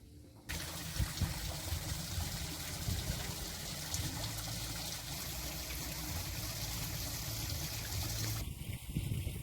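Water running or trickling steadily. It starts abruptly about half a second in and changes sharply near the end.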